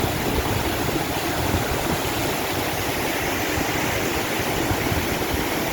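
Rushing water, a steady, unbroken noise with an uneven rumble underneath.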